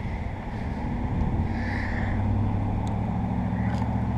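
A steady low mechanical hum that builds slightly over the first second or two and then holds even.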